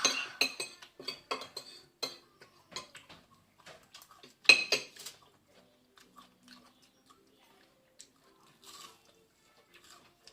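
Cutlery clinking and scraping against plates during a meal: a quick run of sharp clicks, the loudest about four and a half seconds in, then only a few faint taps.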